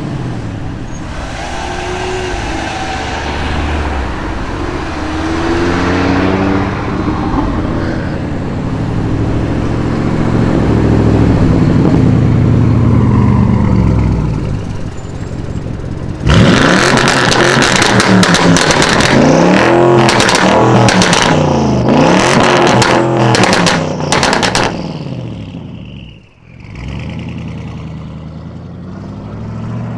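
Audi RS6 C7's twin-turbo V8 accelerating and revving, its pitch rising and falling several times. About 16 seconds in it turns suddenly louder, with a rapid run of exhaust crackles and pops for roughly nine seconds, then drops away sharply before the engine is heard again near the end.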